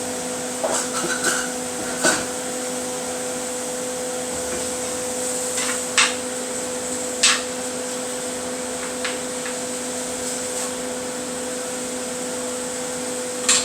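Thick-cut bacon sizzling in a frying pan over a steady hum, with a handful of short sharp clicks or pops scattered through.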